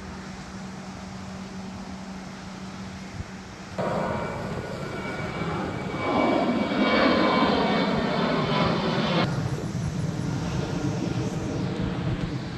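Airplane passing low overhead. Its engine noise comes in suddenly about four seconds in and grows louder, with a high whine, through the middle. It drops off sharply after about nine seconds, then fades.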